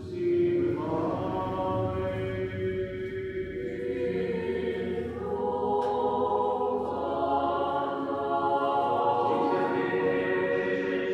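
A choir singing slow liturgical chant in long held chords, the voices coming in together just after the start and shifting to new chords every few seconds.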